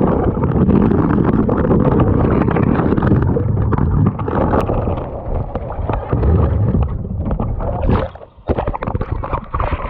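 Wind buffeting the microphone over water sloshing around a kayak, with scattered knocks; the wind drops off briefly about eight seconds in.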